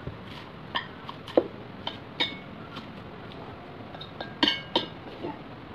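A scattered series of light clinks and taps on a ceramic plate as salad is handled and arranged on it, some with a brief ring; the sharpest come about a second and a half in and again between four and five seconds.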